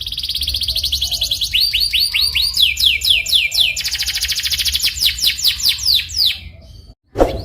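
Domestic canary singing: a fast rolling trill, then runs of quick down-slurred whistled notes, about four or five a second. The song cuts off abruptly near the end, with a short sharp sweep after a brief gap.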